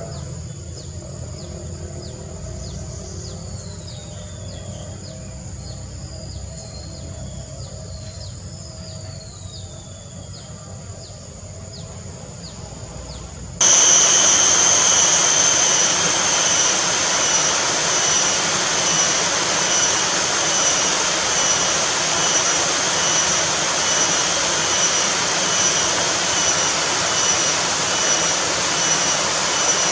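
Outdoor nature ambience: a low hum with a few faint descending bird whistles, then a sudden cut to a loud, steady rushing noise with a high, faintly pulsing buzz over it, like insects.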